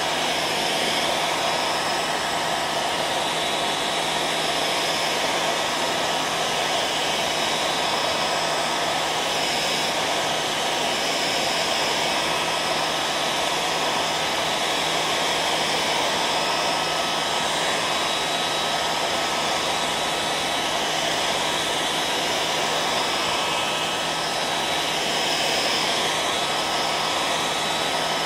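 Hair dryer running steadily: an even rush of blown air with a faint steady whine over it.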